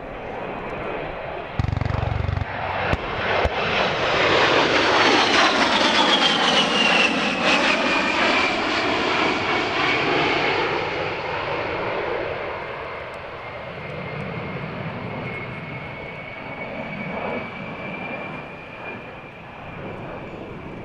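XP-82 Twin Mustang's two V-12 piston engines on a pass: the sound swells to a peak, then fades away, with a whine that falls in pitch as the aircraft goes by.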